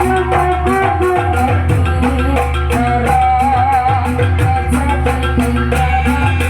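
Jaranan music played live: steady drumming and percussion under a wavering, sustained melody line.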